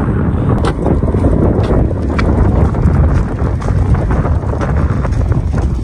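Strong, gusting wind buffeting the microphone, a heavy, fluttering rumble throughout, with a few faint clicks in the first couple of seconds.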